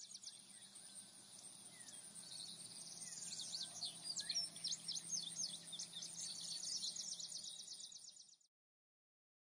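Faint birdsong: many quick chirps and trills with a few short whistled notes, growing louder about three seconds in and stopping shortly before the end, over a faint low hum.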